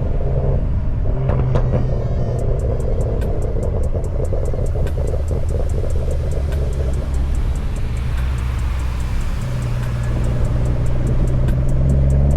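BMW M340i's turbocharged 3.0-litre inline-six running under way at low, fairly steady revs, with a fast, even run of light crackles over the exhaust drone. Near the end the revs begin to climb as it accelerates.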